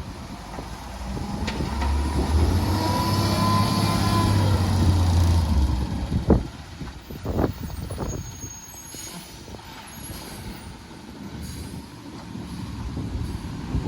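Garbage truck's diesel engine growing loud and rising then falling in pitch as the truck goes by, followed by a few sharp knocks.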